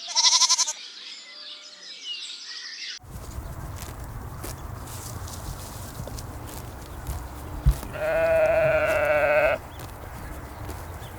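Lambs bleating: one short, loud bleat right at the start, and a longer, quavering bleat of about a second and a half near the end. Underneath, a steady low rumble begins about three seconds in, with a single knock shortly before the second bleat.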